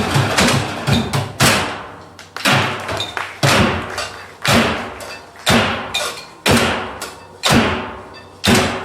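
Percussion performance: heavy strikes at a steady pulse of about one a second, each ringing out in a large hall, with lighter hits between them.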